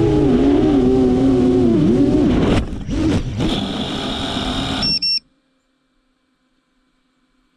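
Motors of a 7-inch FPV quadcopter whining, their pitch sliding steadily lower, then stuttering out and back several times as the drone comes down on a run-down battery. A short beep about five seconds in, then the sound cuts off abruptly to near silence.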